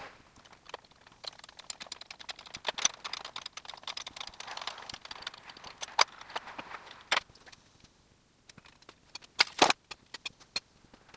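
Metal hand tools and parts clinking and rattling as they are handled, with a run of quick light clicks, then a few sharper knocks, the loudest two close together near the end.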